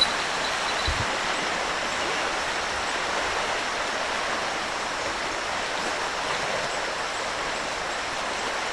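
Steady rushing of a river in flood, the swollen Mandar River's fast brown water running high. A brief low thump about a second in.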